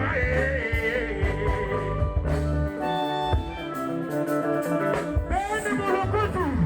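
Live Congolese band music: electric guitar lines over bass and drums, with a singer's voice gliding in pitch.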